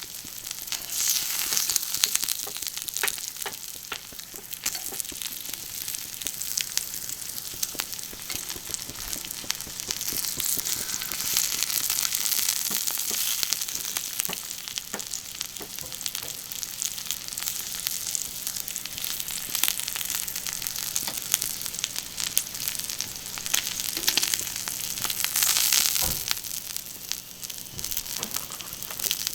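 Food sizzling and crackling on a hot, thick iron griddle plate, a steady high hiss with many small pops that swells louder a few times.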